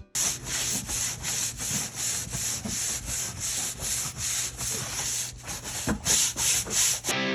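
A stiff brush scrubbing wooden deck planks in quick, regular back-and-forth strokes, about two or three a second, with a short pause near the end.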